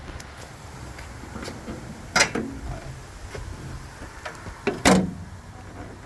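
Handling sounds at a Jeep Wrangler's body: scattered light clicks and two sharp clunks, one about two seconds in and a louder one near five seconds, like a latch or panel being worked.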